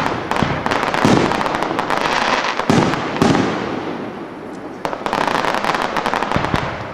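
Aerial fireworks shells bursting: several sharp bangs in the first half, each with a rolling echo. Then a quick run of crackling in the second half.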